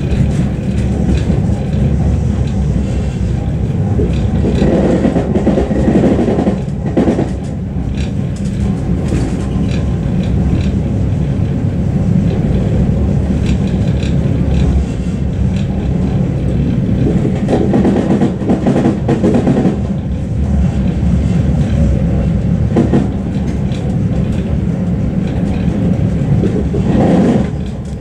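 Suburban passenger train running on the rails, heard from inside the carriage: a steady low rumble of wheels on track, with a few short knocks.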